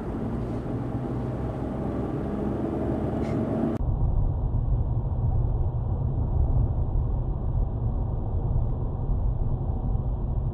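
A car driving, with steady road and engine noise picked up by a dashboard camera. About four seconds in, the sound changes abruptly to a duller recording dominated by a heavy low rumble.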